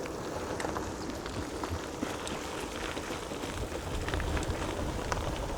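Gravel bike tyres rolling over a lumpy gravel rail trail: a steady crackling rumble with scattered small ticks.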